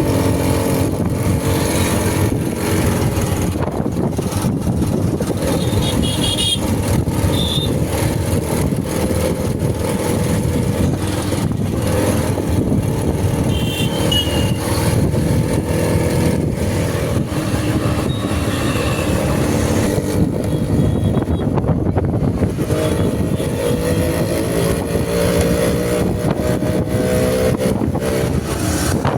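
Motor vehicle running steadily on the move: a loud low rumble with an engine hum that drifts slowly up and down in pitch.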